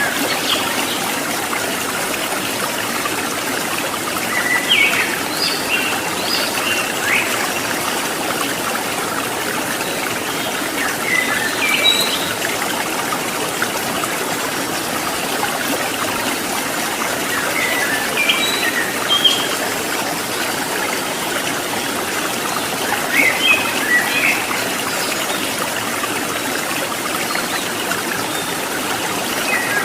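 Steady rush of running mountain water, with a bird calling in short chirpy phrases every five or six seconds over it.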